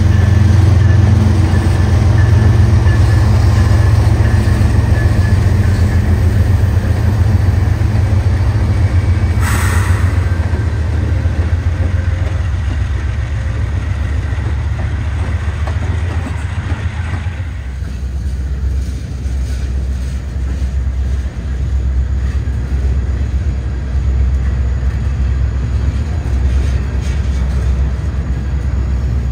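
A freight train passing: diesel locomotives running as they go by, then covered hopper cars rolling past on the rails, with a brief hiss-like burst about ten seconds in. From about two-thirds of the way through, the sound turns into a lower, steady rumble of tank cars rolling by.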